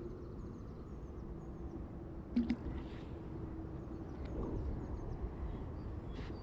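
Outdoor ambience: small birds chirping faintly over a low steady hum and background noise, with a couple of sharp knocks about two and a half seconds in.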